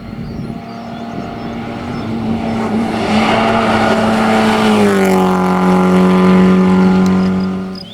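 Citroën AX GTI race car's four-cylinder engine running hard at steady high revs, the pitch dipping slightly about five seconds in and the sound dropping away just before the end.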